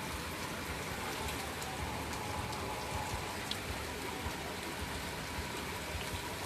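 Heavy rain falling steadily, with scattered small drips and taps in the patter.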